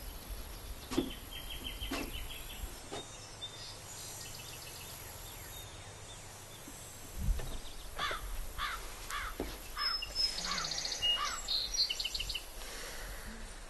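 Outdoor ambience with birds calling, including a quick run of repeated short sweeping notes about eight seconds in, over a low steady background rumble.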